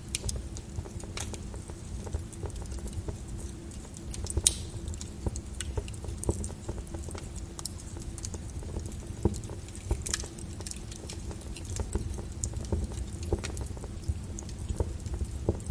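Wood fire crackling, with irregular sharp pops and snaps and one louder pop about four and a half seconds in, over a low steady rumble of the fire and rain.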